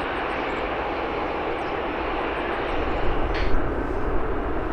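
Airliner engines running, a steady noise with no let-up, and a brief hiss a little over three seconds in.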